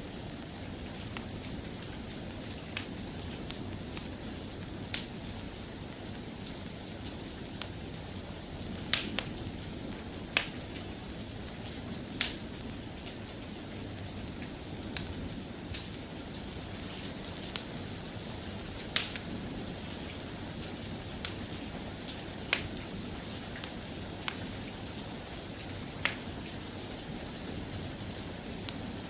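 Steady soft rain, with a wood fire crackling: about a dozen sharp, irregular pops scattered through.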